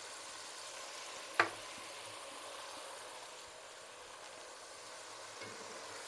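Onions, garlic and oil frying in a metal pot under a layer of chopped tomatoes: a steady, fairly quiet sizzle, with one sharp click about a second and a half in. Near the end a spatula starts stirring through the pot.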